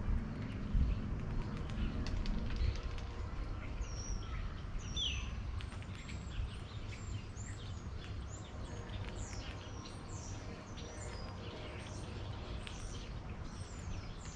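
Small birds chirping: short, high chirps repeated many times, starting about four seconds in and coming thick and fast, over a low outdoor rumble that is louder in the first few seconds.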